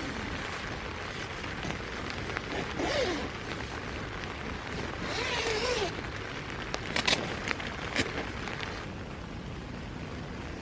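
Steady rain falling, with brief rustling twice and a few sharp clicks or knocks about seven to eight seconds in.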